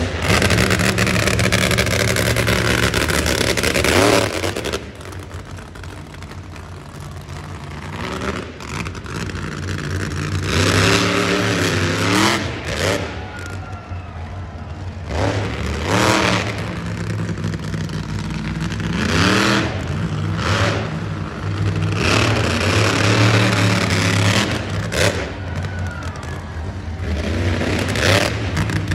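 Monster truck engine revving in repeated bursts, its pitch rising and falling many times, loudest for the first four seconds.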